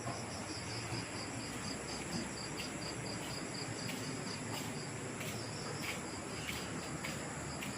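Crickets chirping steadily in a fast, even pulse of about four chirps a second, over a constant high insect drone and a soft background hiss, with a few faint clicks.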